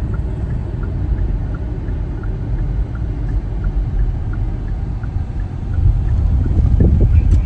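Car driving on the road, a steady low rumble of road and engine noise.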